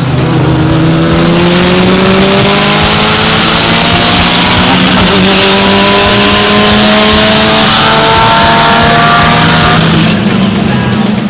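Turbocharged Mitsubishi Lancer Evolution IX, freshly tuned to 370 wheel horsepower, making a hard acceleration pull: the engine climbs steadily through one gear, drops in pitch at a shift about five seconds in, and climbs through the next gear before backing off about ten seconds in.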